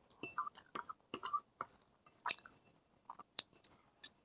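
A mouthful of noodles being chewed, with quick wet mouth clicks and smacks. They come thick for about the first two seconds, then thin out to a few scattered clicks.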